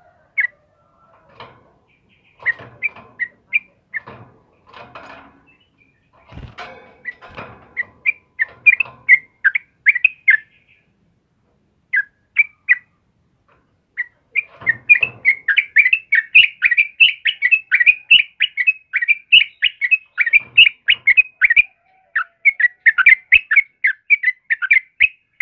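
Yellow-vented bulbul (trucukan) calling with short, bright chattering notes, scattered at first and then a long, fast run of bubbling notes over the second half.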